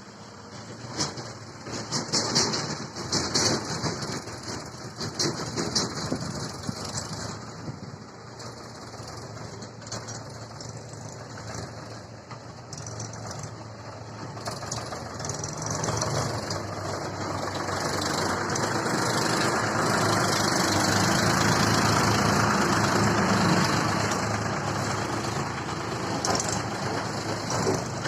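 John Deere tractor's diesel engine running, with knocks and rattles in the first few seconds, then louder and steadier from a little past halfway.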